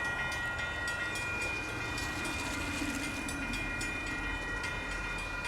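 Freight train rolling slowly through a grade crossing, a low rumble with faint wheel clicks, while the crossing bell rings steadily over it.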